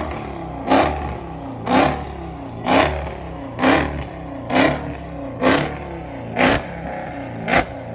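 A car engine being revved over and over in short throttle blips, each a quick rise in pitch, about once a second, coming faster near the end, with the engine idling between blips.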